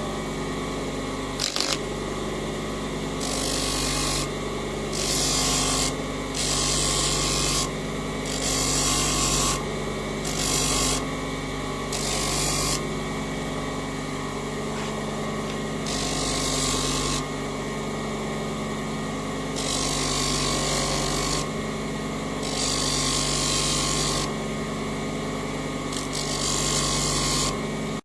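An electric power tool's motor running steadily, starting and stopping abruptly. About a dozen spells of high hiss, each roughly a second long, come every couple of seconds as a workpiece is pressed against it.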